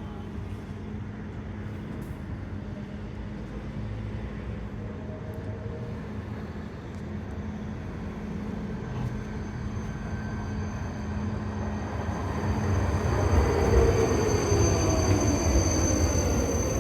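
GTZO low-floor tram running on the rails with a steady low rumble and hum. In the last few seconds the electric drive's whine comes up louder, with high steady tones and tones sliding down in pitch.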